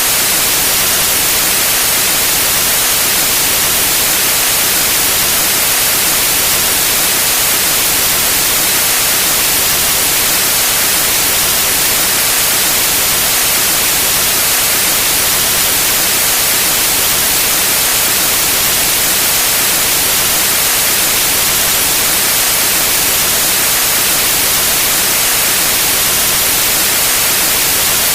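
Steady, unbroken white noise: an even hiss, strongest in the treble, with no change in level.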